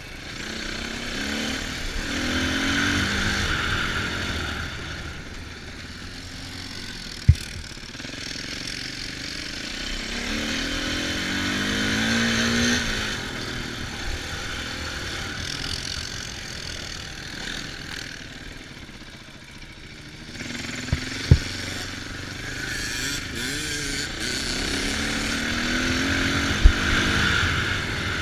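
Off-road vehicle engine revving up through the gears in three surges, easing off between them. A few sharp knocks come in between.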